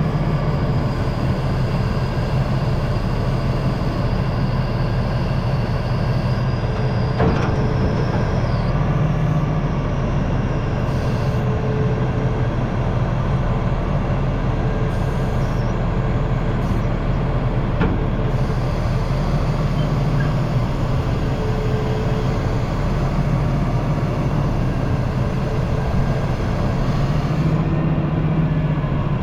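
Diesel engine and hydraulics of the machine working a grapple saw, running steadily with a faint hydraulic whine. Two short knocks, one about a quarter of the way in and one past the middle.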